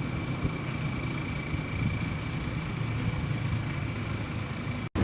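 A heavy bus engine running close by with a steady low rumble and a thin, steady high-pitched tone over it. The sound cuts off abruptly near the end.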